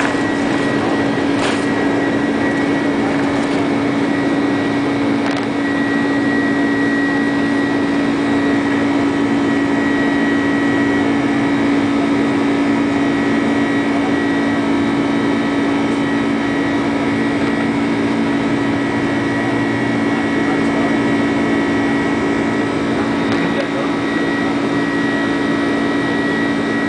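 Airbus A330 jet engines running at steady takeoff power: an even drone with a low hum and a high whine, neither rising nor falling.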